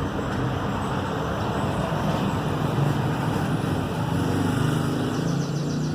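LG washing machine running at the start of a spin cycle after a repair for the LE motor error: a steady mechanical whir with a low hum that swells slightly in the second half.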